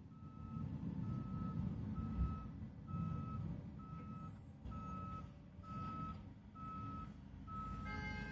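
Salt truck's backup alarm beeping steadily, about one beep every 0.8 seconds, over the low rumble of its engine as it reverses while plowing. A brief higher tone sounds just before the end.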